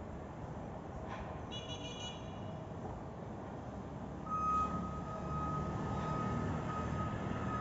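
A motor vehicle's engine running with a low rumble that swells about four seconds in, joined then by a steady high tone. A brief high pitched sound comes about a second and a half in.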